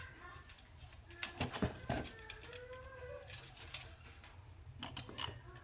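Two short clusters of sharp clicks and knocks, one about a second in and one near the end, with a faint pitched sound between them.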